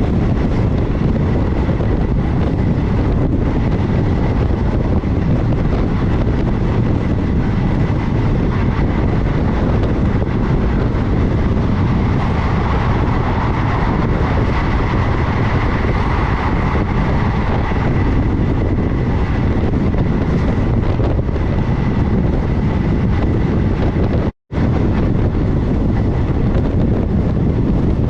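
Passenger express train running at speed, heard from on board: a steady rumble of wheels on rails with wind on the microphone. The sound cuts out for a split second near the end.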